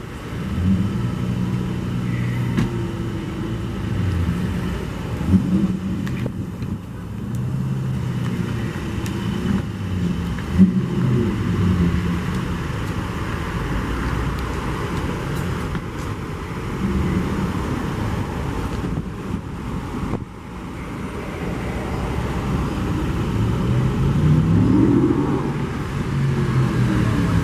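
Car engines running at low revs as vehicles move slowly past. Near the end, one engine revs up, rising in pitch.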